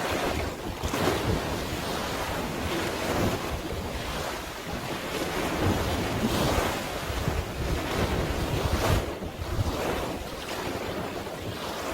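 Wind buffeting the microphone over the wash of sea waves, swelling and easing in gusts every second or two.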